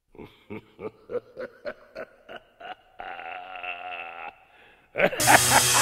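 A person snickering: a run of short chuckles, then a drawn-out wavering laugh. Loud music comes in near the end.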